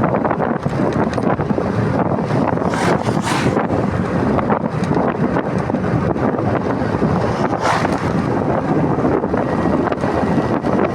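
Wind buffeting the microphone while riding a motorcycle, a loud steady rush mixed with the bike's running and road noise, with brief hissing swells about three seconds in and near eight seconds.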